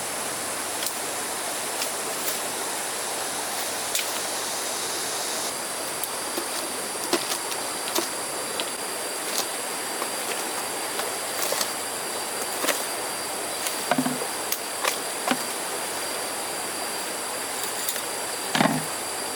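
Steady rushing of flowing river water with a faint high insect drone, scattered light clicks and taps, and two short low knocks, one about two-thirds of the way in and one near the end.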